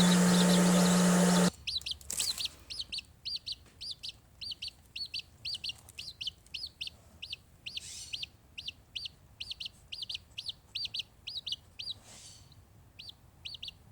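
Baby chicks peeping: many short, high peeps a few times a second. This follows a loud, steady whirring machine noise with a hum that cuts off suddenly about a second and a half in.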